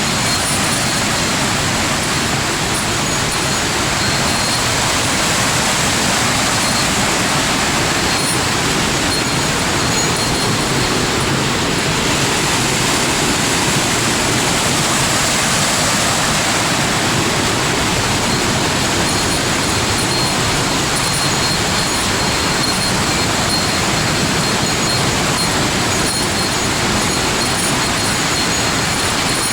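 Loud, steady rushing water.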